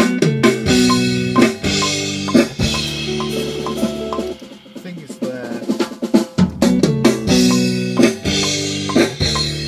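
A rock band playing: drum kit with snare and cymbal hits over sustained guitar and bass chords. The low end drops out for a couple of seconds midway, then the full band comes back in.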